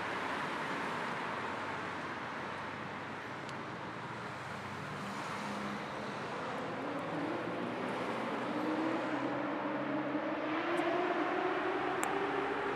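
Car driving, heard as a steady rush of road and tyre noise. Over the second half the engine's hum slowly rises in pitch and gets a little louder as the car speeds up.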